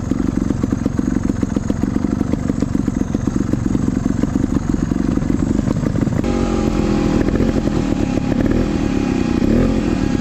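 Trials motorcycle engine running at low revs with a rapid, even putter. About six seconds in the sound changes abruptly to the engine being revved up and down several times, with a thin steady whine over it.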